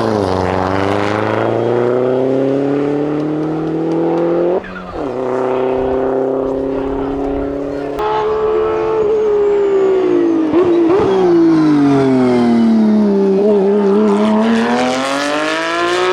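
Hillclimb race car engine at full throttle, its pitch climbing through the gears with a quick upshift about four and a half seconds in. Later the engine winds down as the car slows for a bend, crackling briefly, then revs up hard again near the end.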